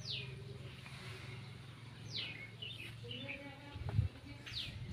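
A bird calling three times, each a sharp whistle that sweeps quickly downward, about two seconds apart, over a steady low hum. A brief low rumble comes near the end.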